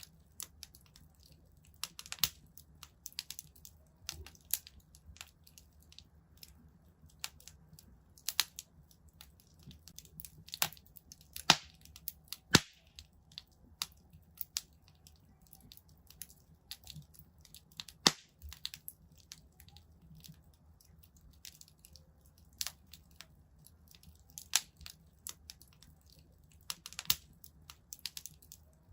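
Wood fire crackling in a fireplace: irregular sharp pops and snaps over a faint low rumble, with a few louder pops about twelve and eighteen seconds in.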